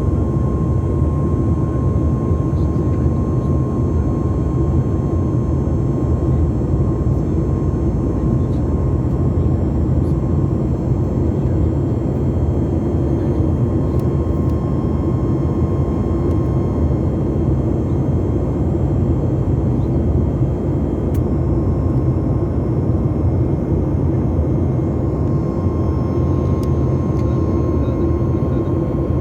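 Steady roar of a Boeing 737 MAX 8's CFM LEAP-1B jet engines and rushing air, heard from inside the passenger cabin in flight, with a thin steady whine running through it.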